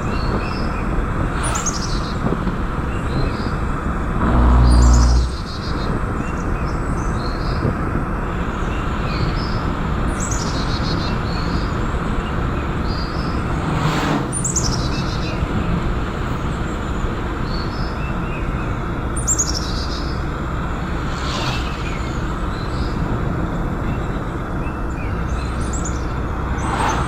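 Birds calling over and over, short high notes sliding downward every two to three seconds, over a steady background noise. About four seconds in, a loud low droning tone rises over everything for about a second.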